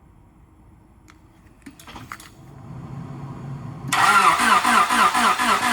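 A Honda Civic's four-cylinder engine cold-starting off a jump-starter pack in extreme cold: a few clicks, a short crank, then the engine catches about four seconds in and runs loud and fast.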